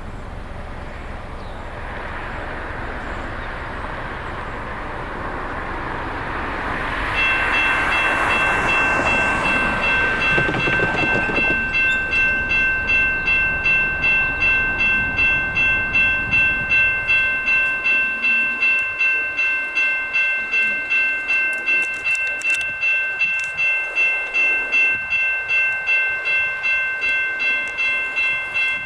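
A train passing over the crossing, its rumble rising and fading, then railroad crossing electronic bells starting about seven seconds in and ringing steadily at about two strokes a second.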